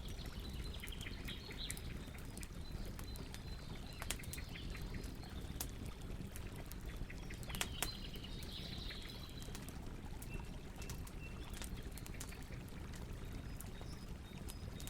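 Campfire burning with a steady low hiss and scattered crackles and pops, a few sharper snaps among them. Birds chirp in the background, most clearly near the start, a little past halfway, and near the end.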